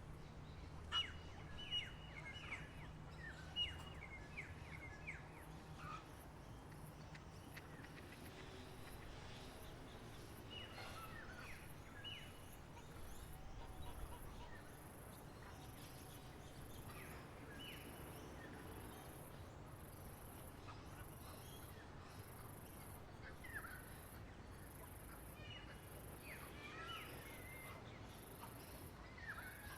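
Wild songbirds chirping in scattered bursts of quick, falling notes, with gaps of several seconds between, over a faint steady outdoor hiss. The sharpest, loudest chirps come in the first few seconds.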